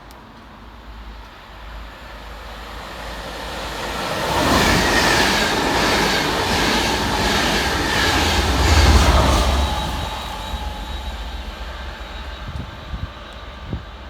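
A Transport for Wales loco-hauled train passing fast through a station, propelled by a Class 67 locomotive, whose V12 two-stroke diesel engine is at the rear. The rumble builds from about four seconds in, with a regular clatter of wheels about twice a second. The deepest, loudest rumble comes about nine seconds in, then the sound fades away.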